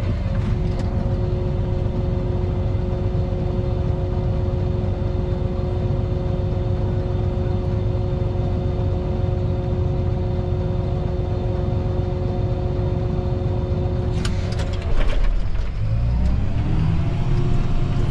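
John Deere 8230 tractor's diesel engine running steadily under load as it pulls a disc harrow, a low rumble with a steady whine over it. About 15 s in there are a few clicks, then the sound grows louder and the engine note climbs to a new pitch.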